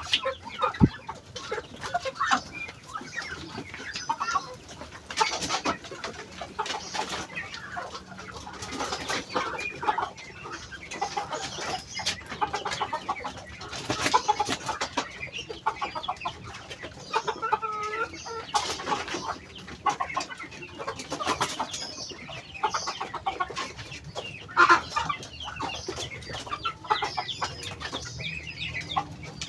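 A flock of Muscovy ducks eating feed hungrily: a dense, steady run of quick bill clicks and pecks, with occasional short calls.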